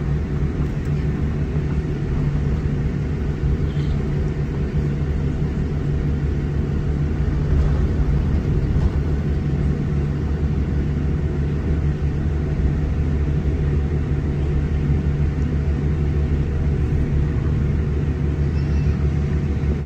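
Steady low rumble and constant hum heard inside the passenger cabin of a Boeing 787-8 airliner taxiing after landing.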